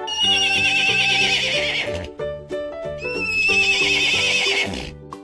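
Two cartoon horse whinnies with a wavering, quavering pitch, one at the start and one about three seconds in, over cheerful background music.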